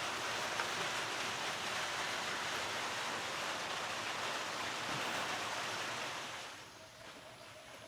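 Steady rushing noise that fades out about six and a half seconds in.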